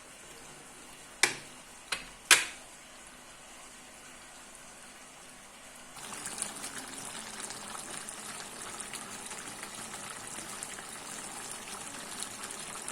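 Three sharp kitchen knocks in quick succession, then about six seconds in a steady crackling hiss of cooking starts and carries on.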